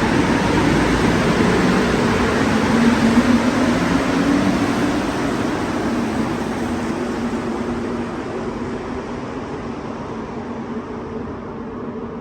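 Rubber-tyred Montreal metro train running with a low hum, its noise fading steadily as it moves away and the hiss dropping off first.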